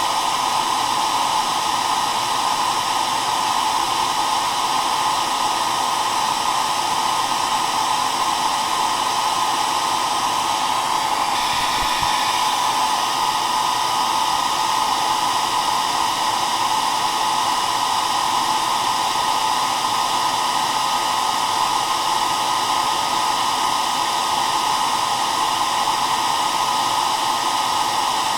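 An electric hair dryer running at a steady setting: an even, unchanging rush of blown air.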